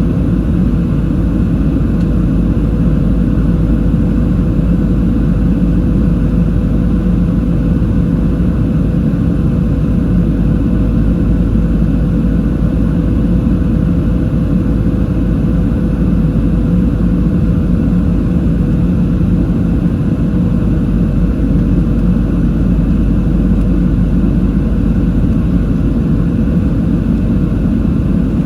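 Steady cabin noise inside a Boeing 737-700: a loud, even rumble from the engines and airflow, with one steady hum over it, unchanging throughout.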